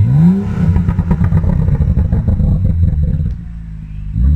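BMW engine with a straight-piped, muffler-delete cat-back exhaust revved sharply in sport mode, its pitch rising fast. While the revs hang and fall there is a dense run of crackling and popping from the exhaust; it settles to idle a little past three seconds, and another short rev blip comes near the end.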